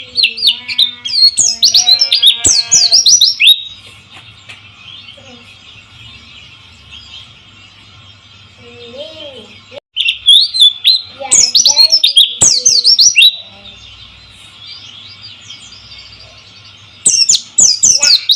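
White-eye (Zosterops, 'pleci') song: loud bursts of fast, high, sweeping chirps at the start, about ten seconds in and again near the end, over a steady high hiss.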